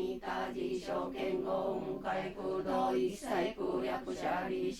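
Voices chanting a Buddhist sutra on a level, droning pitch, syllable after syllable.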